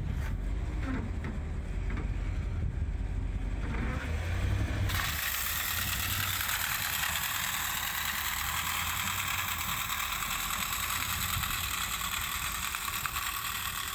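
Plow truck running with a low rumble and light clicking. About five seconds in, a steady hiss starts abruptly, the salt spreader throwing salt.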